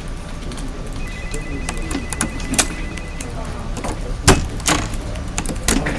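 Office ambience: a steady low hum with scattered clicks and knocks, the loudest a sharp knock a little over four seconds in. A thin, high electronic tone sounds from about one second in for roughly two seconds.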